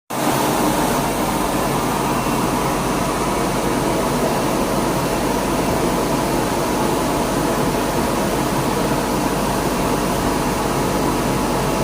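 Flatbed cutting plotter running as it knife-cuts dense cardboard: a steady machine whir with a faint hum.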